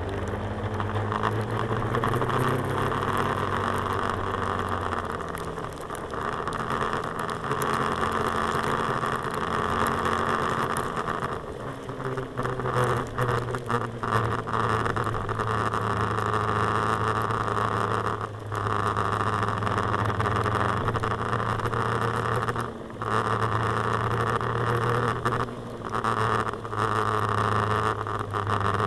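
Suzuki GSR-150 scooter's engine running steadily under way, picked up by a camera on the handlebars, with wind and road noise over it. The level rises as it pulls away at the start, and the sound briefly dips a few times later on.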